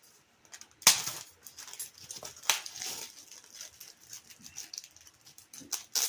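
Crinkling plastic packaging and small clicks and knocks as a boxed RC boat battery is handled and unwrapped, with three sharper crackles about one, two and a half, and six seconds in.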